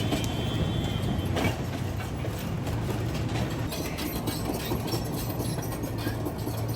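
Military bulldozer's engine running with its steel tracks clanking, a thin squeal in the first second, and a sharp knock about a second and a half in.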